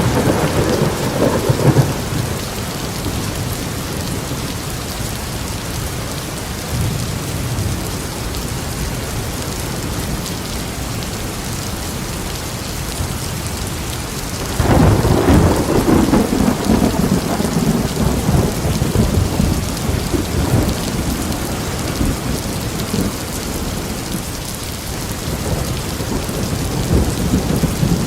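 Thunderstorm: steady rain with thunder. A rumble fades out in the first two seconds, a sudden loud thunderclap comes about halfway and rolls on for several seconds, and more low rumbling builds near the end.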